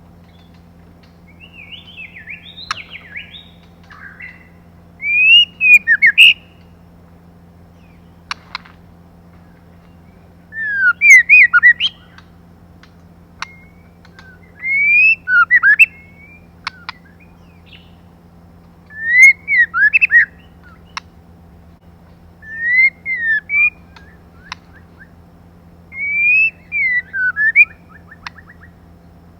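Female white-rumped shama singing short phrases of rising and falling whistled notes, about one phrase every four seconds, over a steady low hum.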